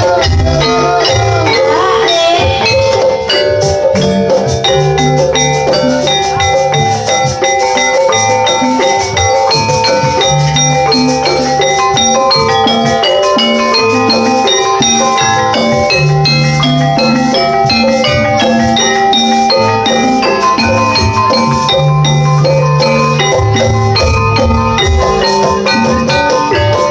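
Javanese jaranan gamelan music: metal mallet percussion playing fast, dense runs of notes over a repeated low part, loud and steady.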